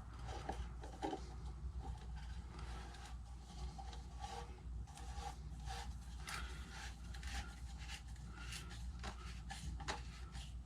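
Faint rubbing and scraping, with scattered small clicks, as a Studor Mini-Vent air admittance valve is screwed by hand onto Teflon-taped pipe threads.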